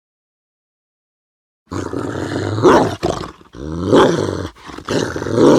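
A dog vocalizing in long, wavering growl-like grumbles, three drawn-out stretches starting about two seconds in after silence.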